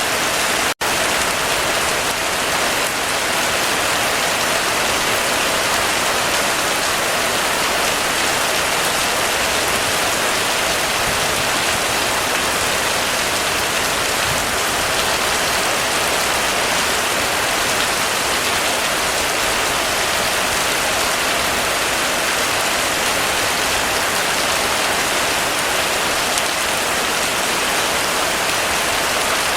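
Intense rain falling as a steady, even hiss, with a split-second dropout a little under a second in.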